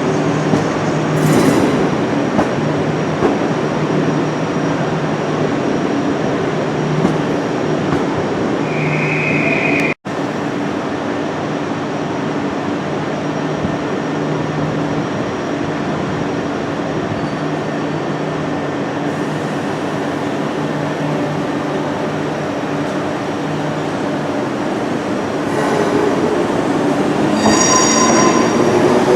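Train running, a steady loud mechanical noise with low hum tones. There is a short high squeal about nine seconds in and a brief gap from an edit cut just after. Near the end it grows louder, with rising pitched tones.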